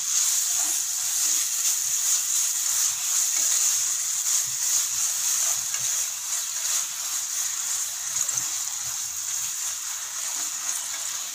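Grated beetroot and sugar sizzling in a hot nonstick pan while a slotted spatula stirs and scrapes through it: a steady hiss with soft wet scraping, as the melting sugar turns the mix syrupy.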